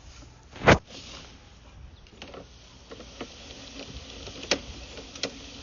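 A single sharp knock less than a second in, then a few faint clicks and taps of equipment being handled.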